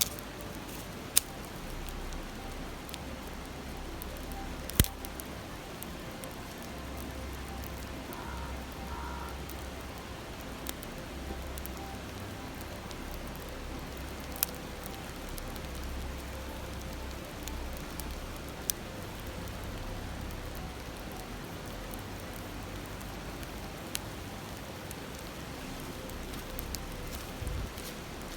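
Campfire crackling, with a few sharp, widely spaced pops, over the steady rush of a stream.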